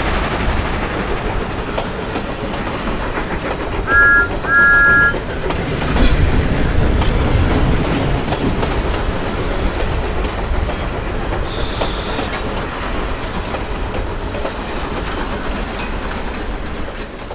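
Train running with a steady rumble of wheels on rails, giving two toots on a two-tone whistle about four seconds in, a short one then a longer one. Faint high wheel squeals come in near the end.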